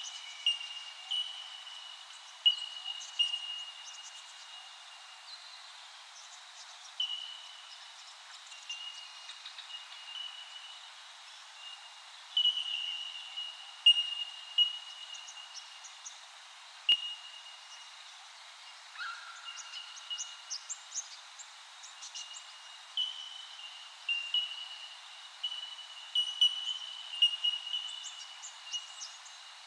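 Wild birds calling: many short, clear notes at nearly the same pitch, repeated irregularly throughout, with scattered higher chirps, over a faint outdoor background.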